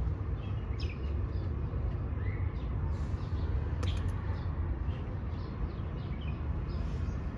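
Small birds chirping on and off over a steady low rumble, with a couple of sharp clicks about four seconds in.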